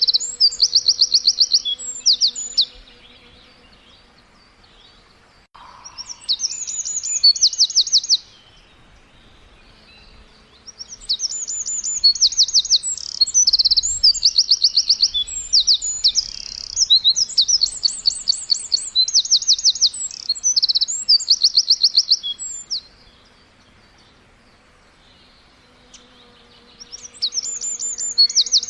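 Birds chirping in rapid, high trills: bouts of quick repeated notes lasting a few seconds, separated by short quiet gaps, with one long run of trilling through the middle. A faint steady hum sits underneath at the start and near the end.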